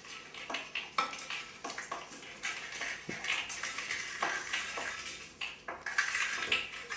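A utensil stirring a mixture in a container, clicking and scraping against its sides several times a second in an uneven rhythm.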